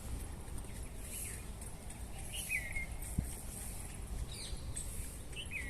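Outdoor bird and insect ambience: a bird gives the same short chirp twice, about two and a half seconds in and again near the end, over a steady, pulsing high insect buzz. There is a low rumble throughout and a single soft knock a little past the middle.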